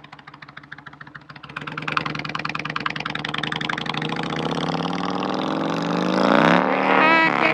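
Honda Navi's 110cc single-cylinder four-stroke engine pulling the scooter-style motorcycle along. It starts fairly quiet, grows louder about a second and a half in, and climbs steadily in pitch over the last couple of seconds as it accelerates.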